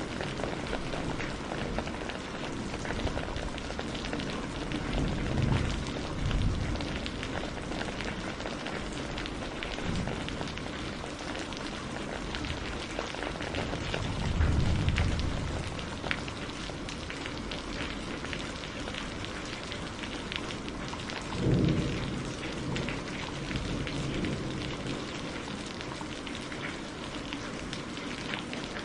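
Steady rain falling in a dense hiss of drops, with three brief low rumbles swelling up through it.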